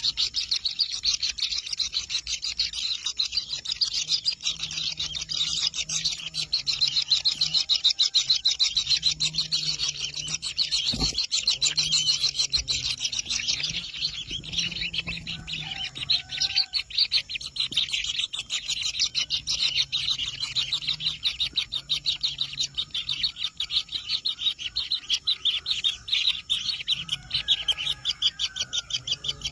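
Kingfisher nestlings calling inside their nest burrow: a dense, rapid, high buzzing chorus that runs on without a break. There is a single sharp knock about eleven seconds in.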